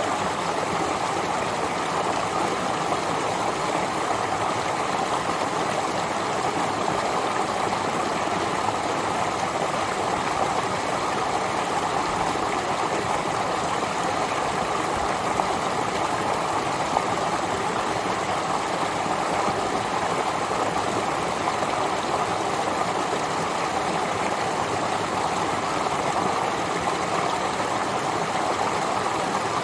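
Spring-fed mountain stream flowing down over rocks: a steady rush of water without a break.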